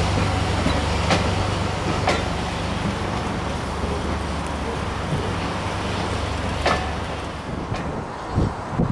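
Railway passenger coaches rolling slowly past, a steady low rumble with sharp wheel clicks over the rail joints about once a second at first and once more later on. Near the end, low gusts of wind buffet the microphone.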